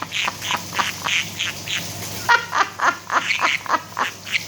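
Pet conure chattering in a quick run of short, squawky syllables, about four a second, with a brief pause partway through.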